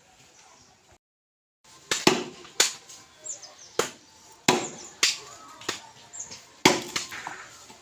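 Hammer blows on construction timber: sharp strikes at irregular intervals, roughly one or two a second, starting about two seconds in after a brief dead silence.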